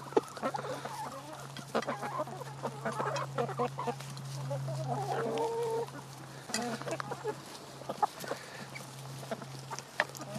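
Backyard chickens clucking in short calls, with many sharp taps mixed in.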